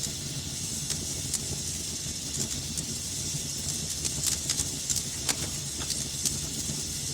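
Wood fire burning in a fireplace: a steady hiss and low rumble of the flames with frequent sharp crackles and pops, thickest in the second half.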